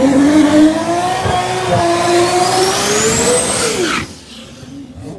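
Drag race car engine at full throttle, its pitch climbing steadily while a high whistle rises with it. The sound falls away abruptly about four seconds in.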